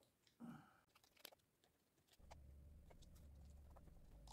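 Near silence with a few faint clicks and small handling noises from a screwdriver backing out the screws of a mini chainsaw's plastic housing, then a faint steady low hum from about two seconds in.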